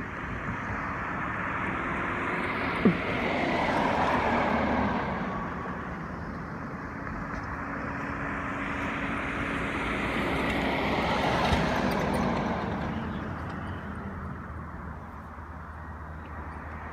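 Road traffic: two vehicles pass one after the other, each swelling up and fading away, with a sharp click during each pass.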